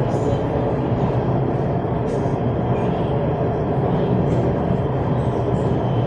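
Orange Line metro train running between stations, heard from inside the carriage as a steady, even rumble.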